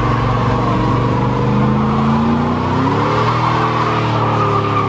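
Car engine held at high revs with tyres screeching, as in a burnout; the engine note climbs in pitch about halfway through.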